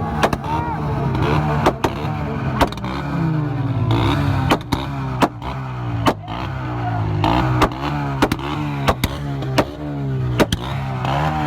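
Car engine revved in repeated quick blips, its pitch falling after each, with sharp pops.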